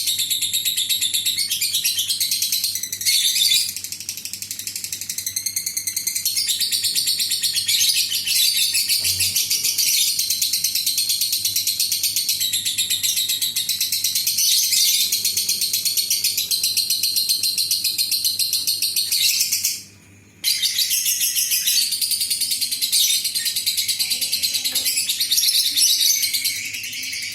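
Lovebird giving its long, rapid chattering trill (the 'ngekek' call), high-pitched and continuous, broken once briefly about two-thirds of the way through. This call is played as a lure to set other lovebirds calling.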